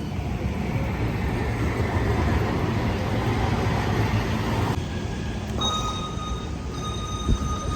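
Steady low rumble of a vehicle in motion, which shifts abruptly about five seconds in. A thin, steady high whine joins for the last two seconds.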